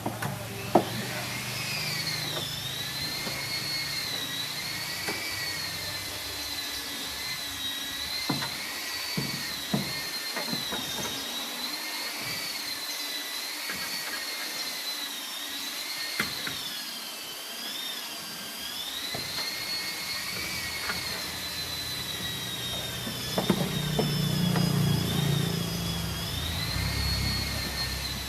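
A small high-speed electric motor running with a steady whine whose pitch wavers slightly up and down, with a few sharp clicks. A lower rumble swells up about three-quarters of the way through.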